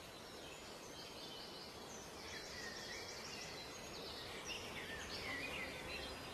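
Faint woodland ambience with several birds chirping and singing in short, high phrases that overlap.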